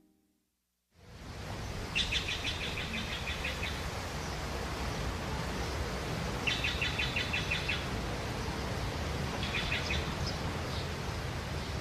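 A songbird repeating a short, rapid trill every three to four seconds over a steady hiss of outdoor background noise, which starts after about a second of silence.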